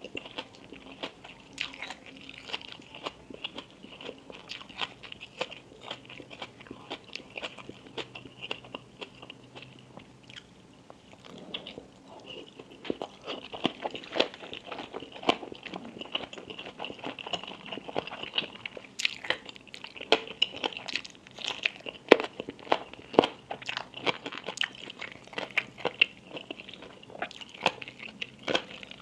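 Close-miked chewing and crunching of crisp food, many sharp bites in quick succession, with a quieter spell about a third of the way in.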